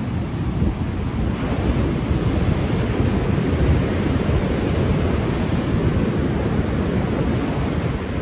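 Ocean surf washing in a steady low rush, swelling slightly a couple of seconds in, with no separate wave breaks standing out.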